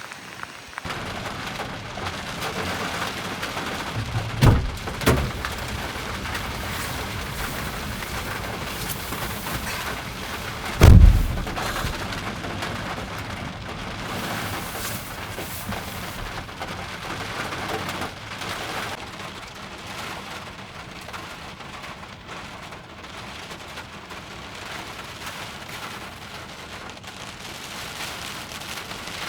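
Heavy typhoon rain and wind, a steady hiss that starts about a second in, broken by a sudden heavy thump about four and a half seconds in, a second one just after, and a louder one about eleven seconds in.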